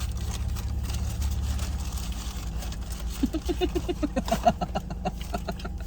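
A steady low hum of a car's idling engine, with small clicks and rustles of food being handled and eaten. About halfway through, a short run of quick, pitched vocal sounds repeats several times a second.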